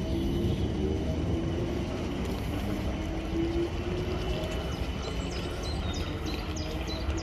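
South Western Railway Class 455 electric multiple unit pulling away along the platform and receding: a steady low rumble of wheels on rails with a faint motor hum that rises slightly in pitch.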